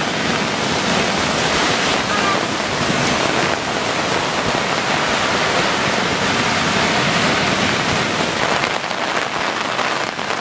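Heavy thunderstorm rain pouring down, a dense, steady hiss.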